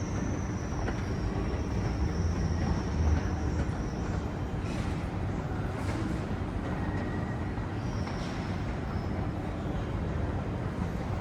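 Steady low rumbling noise, like a vehicle in motion, with a high thin whine over the first few seconds that comes back briefly later.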